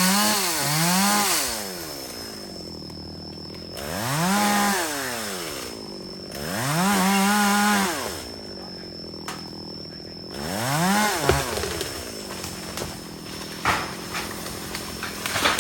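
Chainsaw revved in five short bursts, its engine pitch rising to full throttle and dropping back to idle between them, two quick blips at the start and three more a few seconds apart. A few sharp knocks sound near the end.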